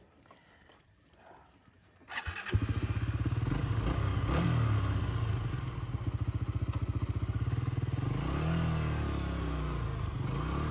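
Suzuki GSX-R sportbike engine starting about two seconds in, then running with a fast, even pulse. Its pitch rises and falls twice as the throttle is worked.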